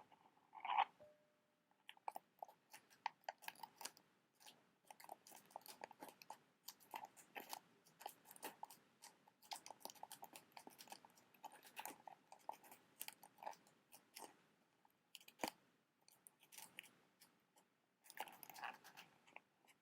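Fingernails tapping and scratching quickly on a box: a dense run of small, irregular clicks, with a longer scratchy rustle near the end.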